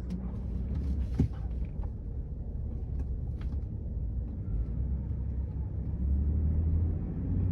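Low, steady rumble of a Ford F-150 pickup driving, heard from inside the cab, with a short knock about a second in; the rumble gets louder about six seconds in.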